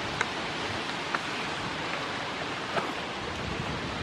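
Steady hiss of rain falling, with three short, sharp ticks scattered through it.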